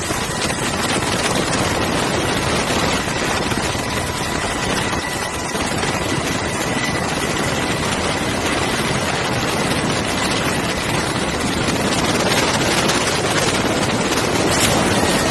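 Jet engines of F-35A and F-16 fighters running at low taxi power: a steady rushing noise with a thin high whine held at one pitch.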